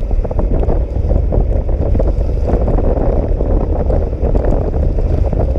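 Steady wind rumble buffeting the microphone of a rider on a moving scooter, with the ride's road noise underneath.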